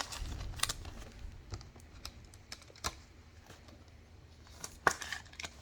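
Trading cards being handled and flipped through: scattered small clicks, taps and light rustles of card stock and plastic, with the loudest click about five seconds in.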